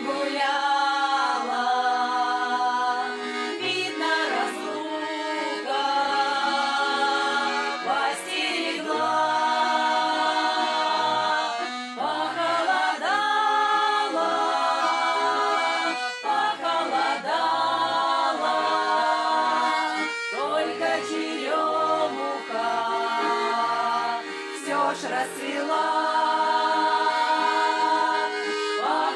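Vocal ensemble singing a Russian song in several voices over instrumental accompaniment.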